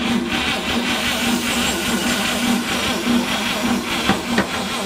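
1950 Chevrolet truck's six-cylinder engine being cranked over by its starter in a steady rhythm without catching. The crew suspects either too little voltage from the booster pack or no spark because the distributor points are dirty and corroded.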